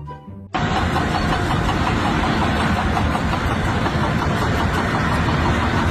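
A short bit of music cuts off about half a second in, replaced at once by an engine running loudly and steadily.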